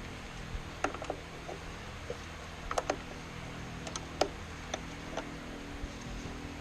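Scattered sharp mechanical clicks and ticks over a steady low hum.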